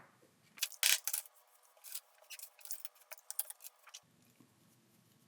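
A small cutting tool snipping through a phone display's thin flex cable a few times about a second in, followed by faint light clicks of small parts being handled.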